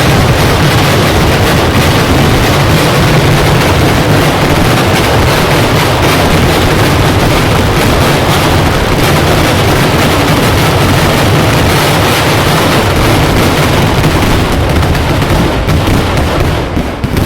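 Dense barrage of fireworks and shell crackers going off so fast that the bangs run together into one continuous din, thinning out into separate bangs near the end.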